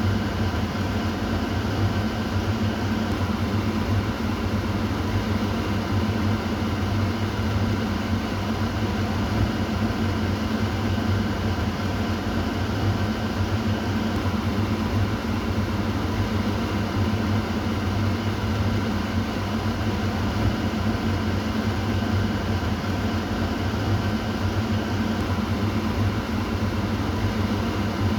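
Kitchen exhaust fan running steadily: a constant rush of air over a low motor hum.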